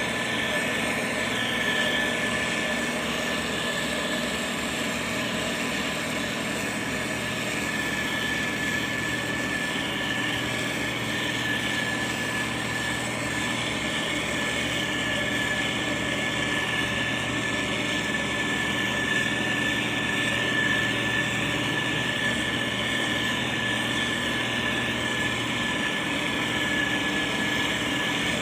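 Diesel engine of heavy road-construction machinery, a motor grader or road roller, running steadily at an even level. A steady high-pitched tone sits over it, and a low hum drops away near the end.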